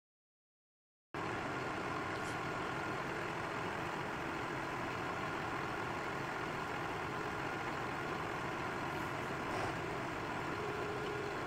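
Heavy forestry machine engine running steadily, starting abruptly about a second in after silence.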